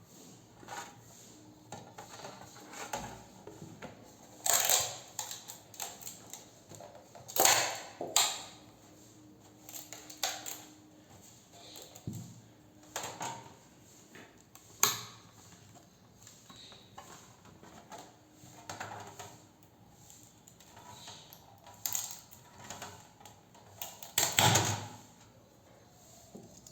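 Irregular clicks, taps and clatter of a hard 3D-printed plastic truck model and its supports being handled, with a few louder knocks spread through.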